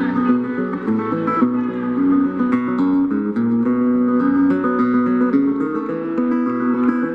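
Instrumental country music: plucked acoustic string instruments playing a steady run of quick, clean notes.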